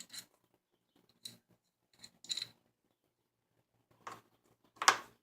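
Light clicks and taps of small carburetor parts being handled and set down, a few scattered sharp ticks with the loudest near the end.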